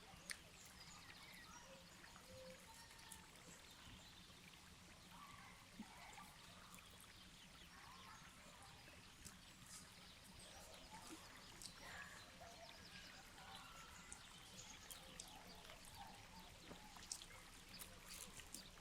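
Near silence: a faint outdoor background with scattered light clicks and ticks.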